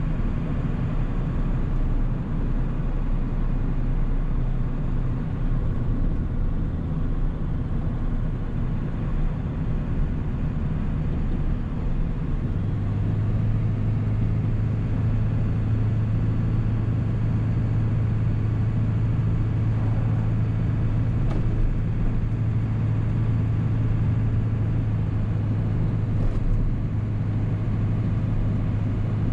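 A 7.3 L Powerstroke V8 turbo-diesel running steadily as the truck is driven. About twelve seconds in, a strong steady low drone sets in and holds.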